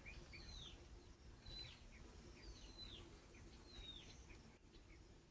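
Faint bird chirps: short, downward-sliding high calls repeating about once or twice a second, over a low background rumble.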